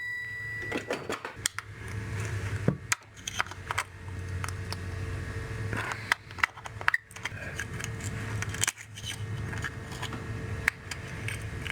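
Clicks, clinks and scrapes of metal and plastic parts being worked loose while a consumer-electronics casing is taken apart by hand, over a steady low hum.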